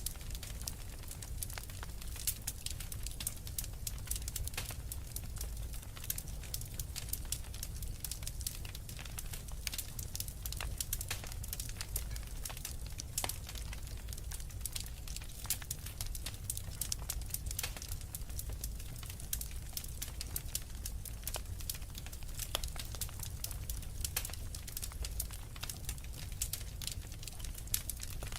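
Wood fire burning in a fireplace: a dense, irregular crackling of small sharp pops over a steady low rumble of the flames.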